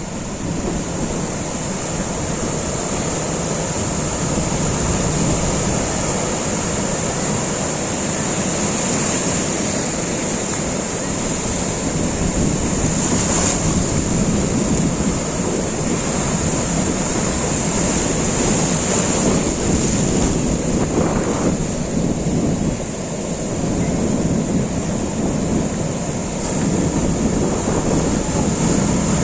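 Surf washing onto a beach, a steady rushing wash of waves with wind buffeting the microphone. A thin steady hiss sits high above it throughout.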